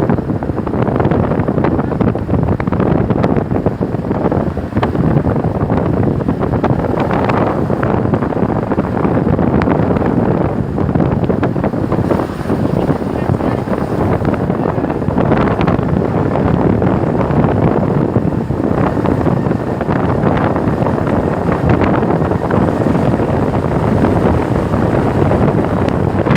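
Strong wind blowing on the microphone: a loud, steady rushing buffet that swells and eases slightly without a break.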